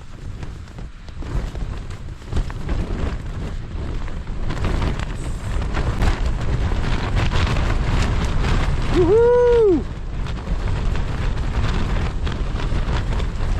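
Gale-force wind gusting and buffeting a Nordisk Telemark 2 LW tent, the fabric flapping, growing louder over the first few seconds.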